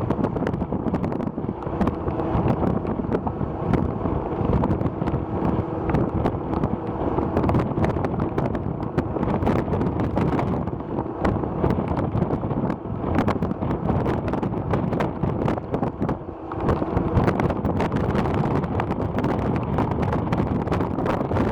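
Wind buffeting the microphone in gusts, with crackles and a dense low rumble, over a faint steady hum. The wind briefly eases about three quarters of the way through.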